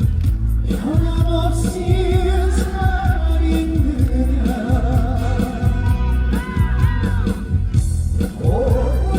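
A male singer singing a trot song over a backing track with a steady beat, his held notes wavering with vibrato; the voice drops out briefly near the end.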